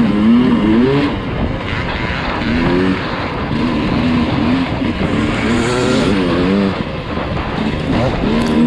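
Dirt bike engine being ridden on a trail, revving up and down in repeated bursts of throttle, its pitch rising and falling every second or two.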